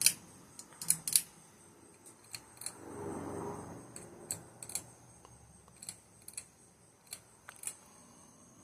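Scattered light clicks and ticks from the ceiling fan's pull chains being handled, irregular and about a dozen in all, with a short soft rustle about three seconds in.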